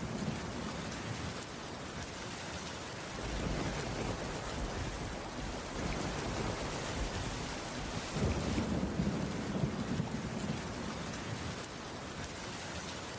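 Steady rainfall with low rumbles of thunder, swelling about three seconds in and again around eight seconds in.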